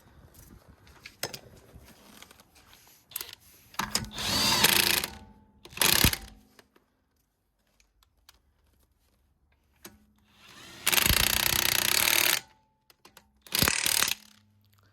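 Power tool, most likely an impact wrench, running in four bursts: a longer one about four seconds in, a short one after it, a long one of about a second and a half later on, then a last short one.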